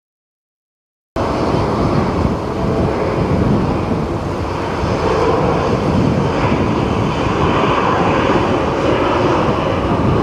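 Jet airliner engines on a low landing approach, mixed with strong typhoon wind buffeting the microphone. The loud, steady rush cuts in abruptly about a second in after dead silence.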